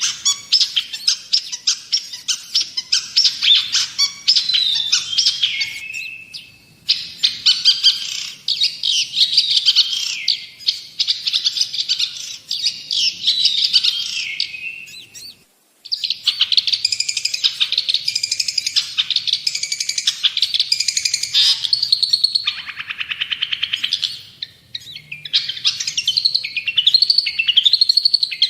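Long-tailed shrike (cendet) singing a loud, fast, chattering song of rapid notes and trills, with falling slurred phrases. The song breaks off briefly about fifteen seconds in, then resumes.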